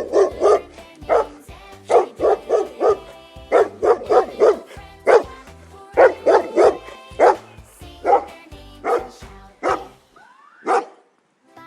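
Dog barking over and over in quick groups of two to four barks, over background music; the barks thin out near the end.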